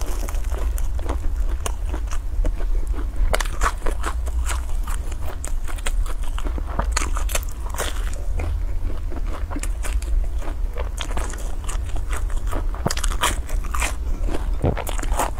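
Close-miked biting and chewing of crisp fried dough sticks, a steady run of crunches and crackles over a constant low hum.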